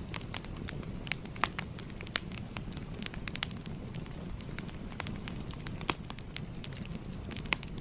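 Wood fire crackling: a steady low rumble of burning with irregular sharp pops and snaps, the loudest about six seconds in and again near the end.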